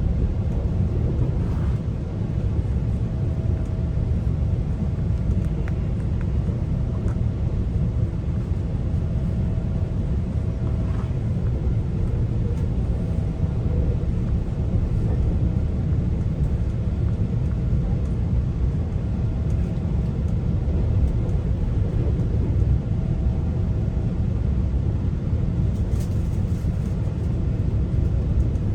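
GO Transit commuter train running at speed, heard from aboard a passenger coach: a steady low rumble of wheels on track, with a faint hum that comes and goes.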